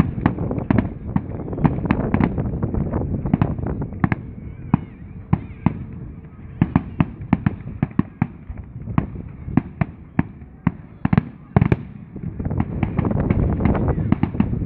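Fireworks display: rapid, irregular sharp bangs and crackles, several a second, over a continuous low rumble of shell bursts.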